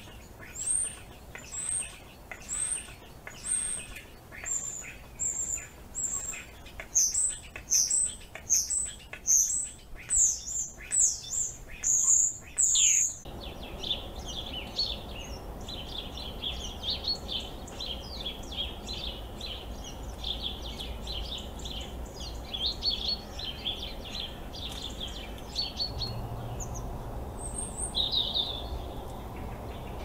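Small birds chirping: a run of short, high calls, one or two a second and quickening, for about the first dozen seconds. After an abrupt change about thirteen seconds in, there is a dense, lower-pitched twittering, with a few sharper calls near the end.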